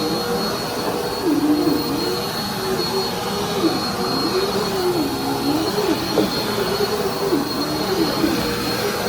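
Dirt Devil Endura Compact bagless upright vacuum cleaner running on carpet: a steady motor whine with a high thin tone over it, and a lower hum that wavers up and down about once a second.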